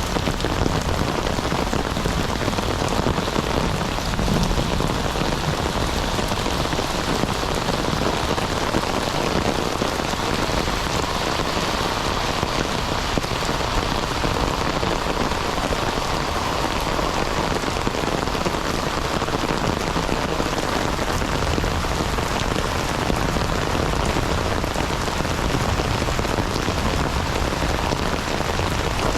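Heavy rain falling, a steady dense patter of drops on surfaces close around the microphone.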